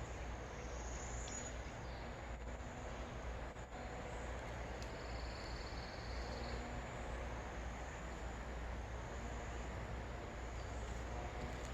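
Quiet woodland ambience: a steady low rumble and hiss, with a faint high insect buzz from about five seconds in that lasts a second or two.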